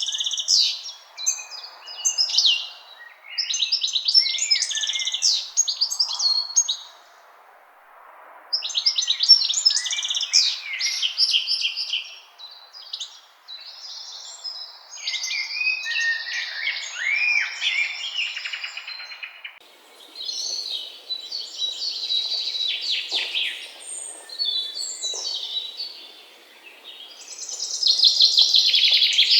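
Songbirds singing in woodland, phrase after phrase of quick high chirps and trills with short pauses between them. The song grows denser and overlapping near the end.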